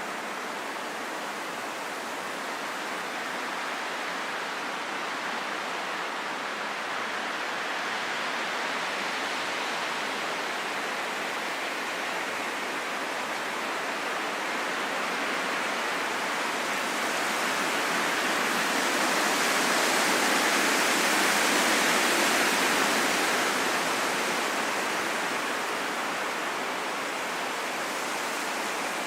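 Steady heavy rain falling in a forest, an even dense hiss that swells louder about two-thirds of the way through, then eases back.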